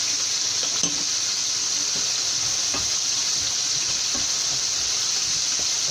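Onions, masala and green chilies sizzling steadily as they fry in oil in a steel pan, stirred with a wooden spoon, with a couple of light knocks from the spoon.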